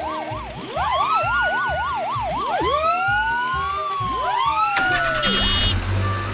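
Emergency-vehicle siren sound effect, switching between a slow rising-and-falling wail and a fast yelp, over a steady low beat. It stops about five seconds in.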